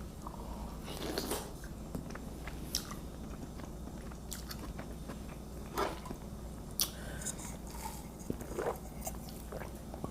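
Close-miked chewing and biting of shrimp, mussels and fettuccine, with short wet mouth clicks every second or two.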